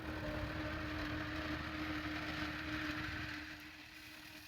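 Tractor engine running under load while pulling a laser land leveler: a low rumble with a steady hum, growing quieter about three and a half seconds in.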